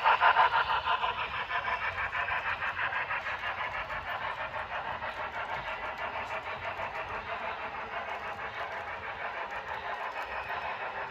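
HO scale model train running past with a quick, even beat of about five pulses a second, loudest at the start and fading as it moves away.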